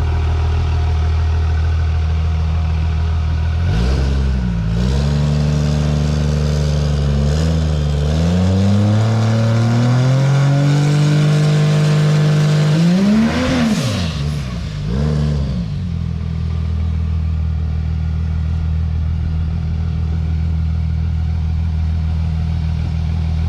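Turbocharged Cummins inline-six diesel in a drag truck idling, then held on the brake while revved up, its pitch climbing steadily for about nine seconds as it builds boost. Near the middle it peaks and drops, rises briefly once more, then settles back to a steady idle.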